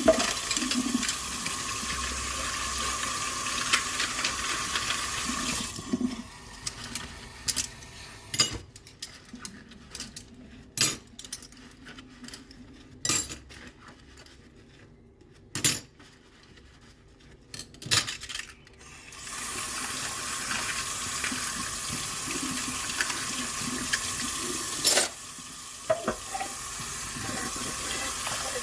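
Kitchen tap running into a sink, turned off about six seconds in. Scattered clinks and knocks of dishes being handled follow, and the tap runs again from about twenty seconds in, with one sharp clink under the running water.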